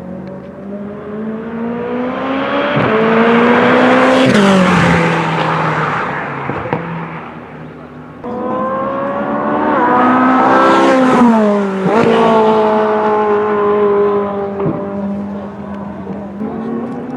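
High-performance car engines accelerating hard on a racetrack, the pitch climbing as each car approaches and then sweeping down sharply as it passes. This happens twice, with an abrupt change to the second pass about eight seconds in.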